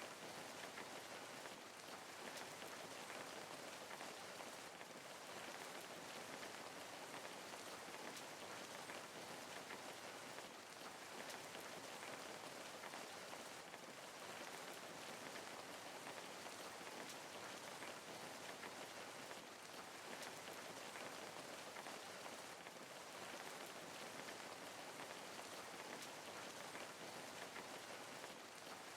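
Steady rain falling, an even hiss with many small drop ticks. It holds at a constant, fairly soft level.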